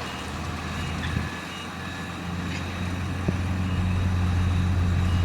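Heavy diesel earthmoving machinery running, its engine working harder and louder over the second half, while a reversing alarm beeps repeatedly. A couple of sharp knocks stand out in the first half.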